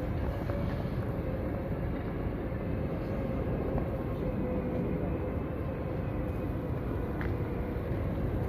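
Steady low rumble of city background noise, with a faint steady hum.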